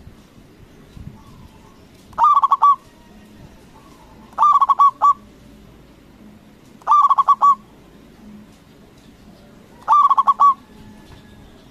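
Zebra dove (perkutut) singing its song: four short bursts of rapid, clipped cooing notes, one every two to three seconds.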